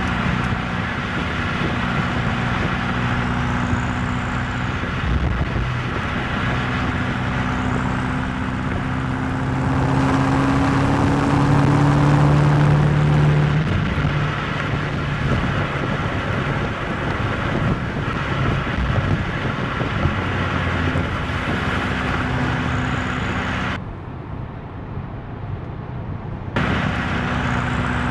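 BMW M8 Competition's twin-turbo V8 running while the car is driven, over a steady hiss of tyre and wind noise. The engine note climbs as it accelerates between about ten and thirteen seconds in, then eases off. Near the end the sound goes muffled for about three seconds.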